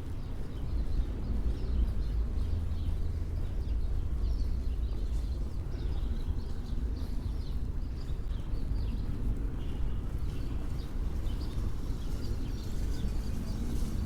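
City street background: a steady low rumble of traffic, with small birds chirping many times over it, more often in the second half.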